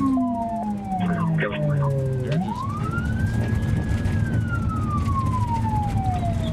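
Police car siren in a slow wail: the pitch falls away, rises again a little over two seconds in, holds briefly, and falls slowly, over a steady rumble of engine and road noise.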